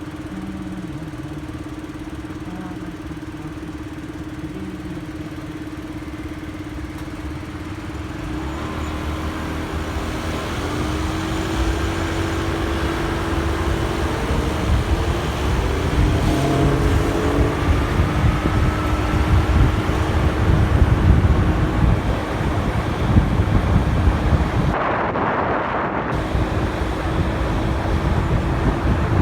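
Motorcycle engine running steadily, then revving up with rising pitch as the bike pulls away and accelerates, with road noise growing louder from about a third of the way in.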